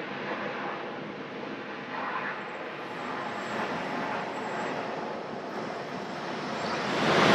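Jet airliner engine noise, a steady rushing sound that grows sharply louder near the end as a jet comes closer.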